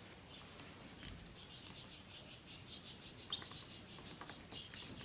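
Rosy-faced lovebirds chirping: a quick run of short, high chirps starting about a second in and growing busier near the end.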